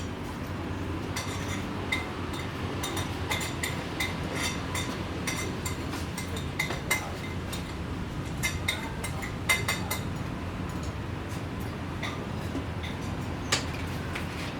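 A food dish clinking lightly and irregularly as kittens eat from it, many short ringing ticks over a steady low hum.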